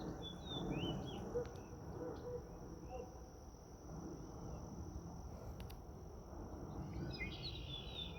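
Bird chirping in short notes that bend up and down, a few early on and a quicker cluster near the end, over a steady low rumble and a faint steady high-pitched tone.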